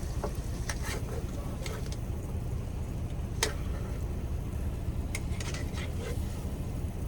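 Steady low rumble of the semi-truck's idling engine, with scattered light clicks and taps of a utensil against the frying pan, one sharper tap about three and a half seconds in.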